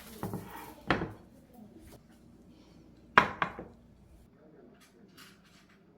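Dishes and utensils clinking and knocking in a kitchen. There are two knocks within the first second, a louder pair about three seconds in, and lighter clicks near the end.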